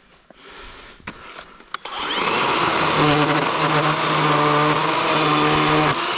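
Worx WG384.9 40-volt cordless electric chainsaw starting up about two seconds in and cutting into a downed log, a loud steady motor whine over chain rasp.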